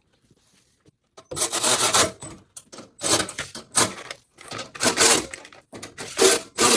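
Repeated scraping strokes, one after another with short gaps, starting about a second in.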